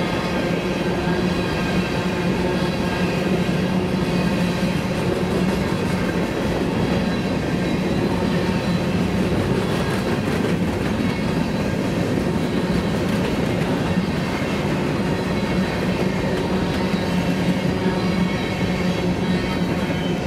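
Grain train's covered hopper cars rolling past on the rails: a loud, steady rumble of steel wheels on track, with a constant hum running underneath.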